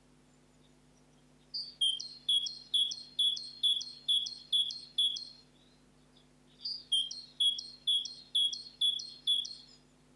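A songbird singing: two phrases, each a quick run of the same two-part note repeated two or three times a second, the first starting a second and a half in and the second after a pause of about a second and a half.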